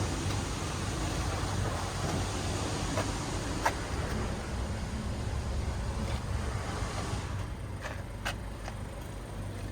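Mitsubishi Space Runner's 2.4 GDI four-cylinder engine idling steadily, with a few light clicks.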